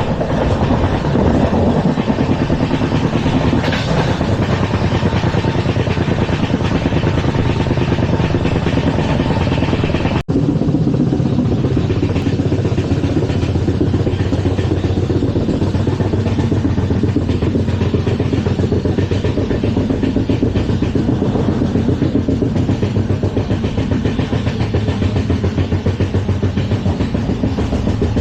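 An LHB passenger coach running at speed on the rails, with a loud, steady rumble of wheels on track. The sound breaks off for an instant about ten seconds in, then carries on lower and duller.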